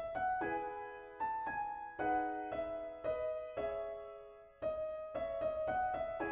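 Solo piano piece played back from MuseScore 4's MIDI piano sound: single notes and chords struck one after another and left to ring and fade, with one chord dying away about four and a half seconds in before the playing picks up again.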